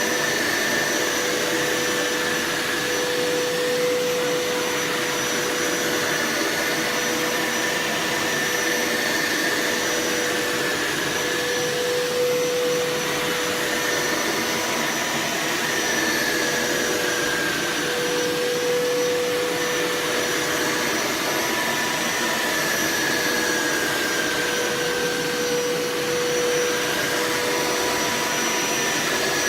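Hoover Power Scrub Elite carpet cleaner running steadily with a whining motor tone, its pitch wavering slightly every few seconds as it works the carpet.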